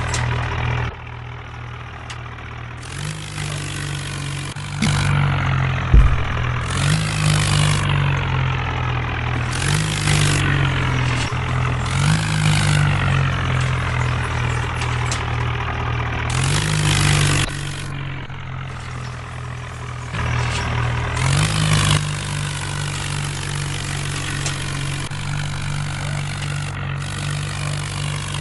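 Tractor engine running and being revved up several times, each rev raising its pitch and bringing a loud hiss, then dropping back to a steady run. There is a single sharp thump about six seconds in.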